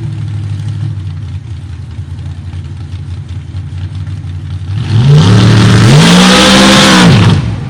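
1800-horsepower mud racing truck engine running steadily, then about five seconds in revving hard to full volume, its pitch climbing and falling back, before settling again near the end.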